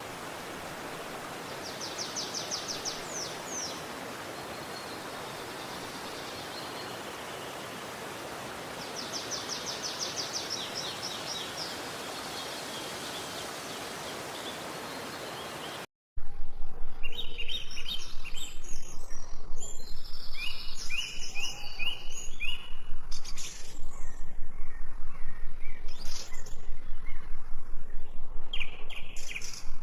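Stream water rushing as a steady hiss, with a bird's rapid trill twice. About halfway through it cuts abruptly to many birds chirping and calling over a steady low hum.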